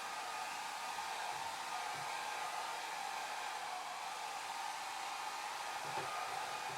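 Hair dryer running steadily: an even, unbroken rush of air with a steady hum band in the middle of the range.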